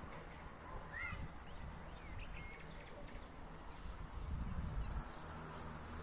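A few short bird chirps over a steady low outdoor rumble, like wind on the microphone, which swells a little past the middle.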